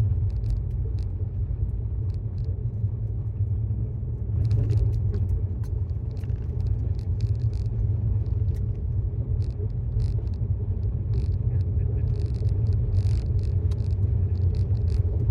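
Steady low road and tyre rumble inside the cabin of a 2018 Tesla Model S 75D on the move, with no engine note. Scattered faint short ticks run over the rumble.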